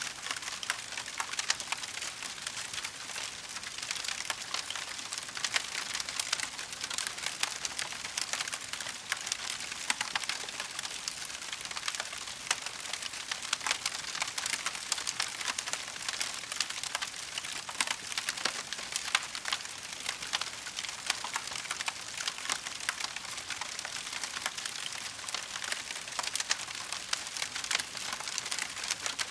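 Wood fire burning in a fireplace, crackling steadily with a dense run of small pops and snaps over a soft hiss.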